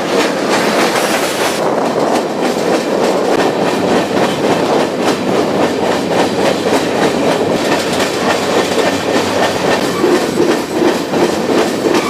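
Freight train rolling at speed, heard from aboard a car: a steady loud rumble and rattle of wheels on rail with irregular clattering.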